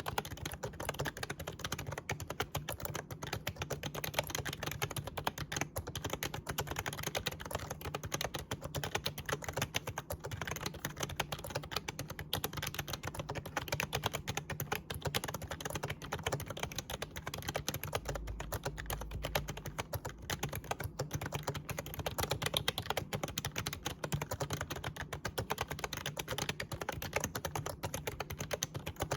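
Continuous, fast typing on an Actto retro mini Bluetooth typewriter-style membrane keyboard: a dense, irregular stream of soft key clicks.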